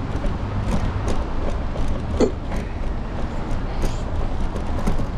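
Street noise from a moving electric scooter with a handlebar-mounted camera: a steady low rumble of road and passing traffic, with scattered short clicks and rattles. A brief pitched sound comes about two seconds in.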